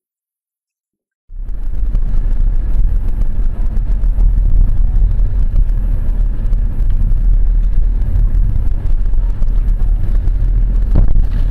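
Steady low rumble of a moving car's road and engine noise, as picked up by a dash camera, cutting in abruptly after about a second of silence. A short knock sounds near the end.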